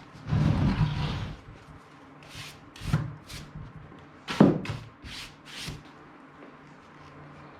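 Quick hand cleaning of a car seat: rubbing and brushing strokes over the upholstery, with a handful of short swishes and one sharper thump about four and a half seconds in.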